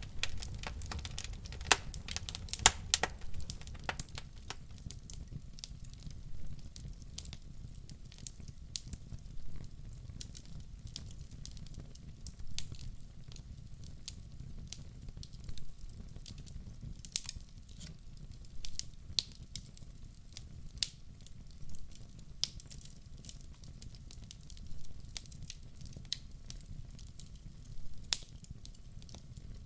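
Wood fire crackling in a fireplace: scattered sharp pops and snaps over a low, steady rumble, busiest in the first few seconds.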